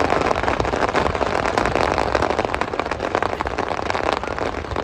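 Fireworks going off: a dense, irregular crackle of many small pops over a low rumble.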